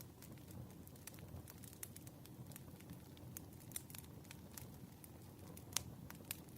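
Wood fire burning: scattered sharp crackles and pops of firewood over a low, steady rumble of flame, with one louder pop near the end.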